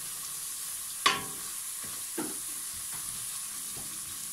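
Ground spices sizzling steadily in hot mustard oil in a stainless steel pot while being stirred with a wooden spoon, which knocks against the pot twice, loudest about a second in and again about two seconds in.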